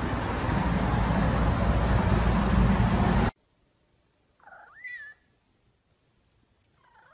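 A loud, steady noise cuts off suddenly about three seconds in. A domestic cat then meows once, in a call that rises and falls in pitch, followed near the end by a shorter, fainter meow.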